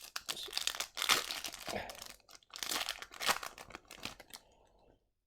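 Foil wrapper of a hockey card pack crinkling and tearing as it is opened, in two louder spells, then fading out.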